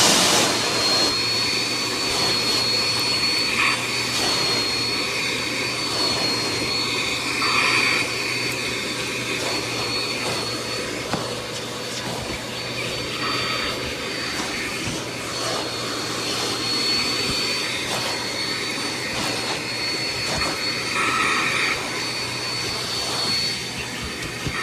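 Bissell CleanView Compact upright vacuum running steadily, a rushing motor-and-airflow sound with a thin, high whine on top, its pitch shifting slightly as it is worked.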